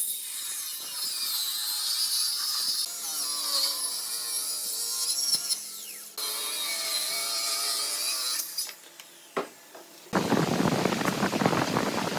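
Woodworking power tools running on wood in a string of short clips, the sound changing abruptly several times: a high whine for the first half, then a dense rushing noise near the end.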